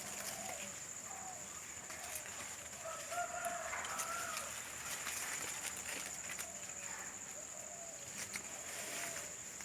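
Chickens clucking, faint and intermittent, over a steady high-pitched tone and a few light clicks.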